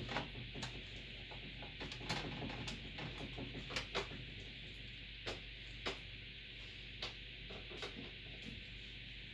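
Scattered small clicks and taps of hands working on the parts of a desktop PC case and motherboard, over a steady low electrical hum and hiss.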